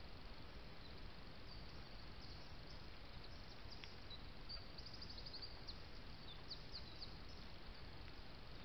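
Faint, high, thin bird calls from small woodland birds, including a quick trill of about eight notes near the middle, over a steady hiss.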